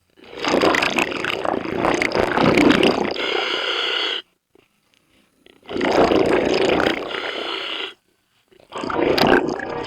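Scuba diver breathing through a regulator underwater: exhaled bubbles rushing out in three long breaths of a few seconds each, with short silent pauses between them.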